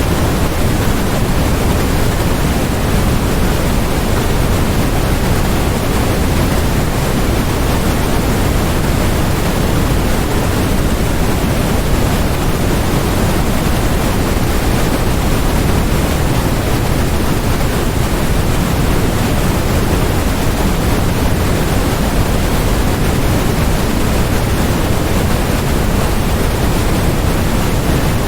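Steady synthetic noise played as a masking sound: an even, unbroken hiss with more weight in the low end than the high, nearer to pink noise than flat white noise, and no change at all.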